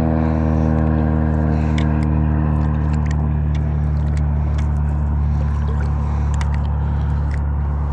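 An engine running steadily with an even, unchanging pitch; its higher overtones fade out about halfway through, leaving a low hum.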